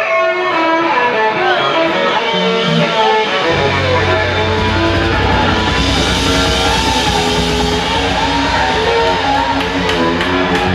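Live rock band playing an instrumental passage, with a melodic lead line; the bass and drums come in heavily about three and a half seconds in.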